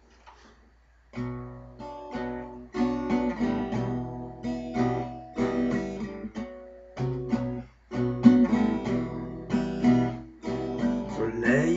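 Acoustic guitar strumming chords as a song's instrumental intro, starting about a second in.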